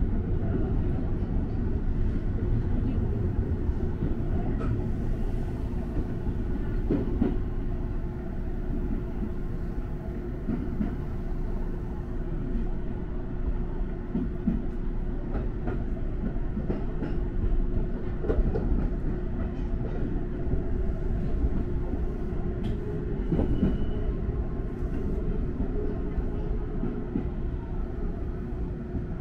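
Electric train running, heard from inside the front car: a steady rumble of wheels on rail under a constant hum, with occasional sharp clicks as the wheels cross rail joints and points.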